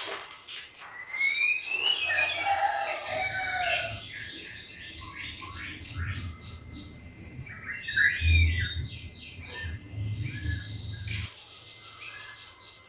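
White-rumped shama (murai batu) singing a long, varied song of rapid chips, trills and rising and falling whistles, the kind of song used as a lure to make other shamas sing. Low thuds and rumble sound under the song through the middle.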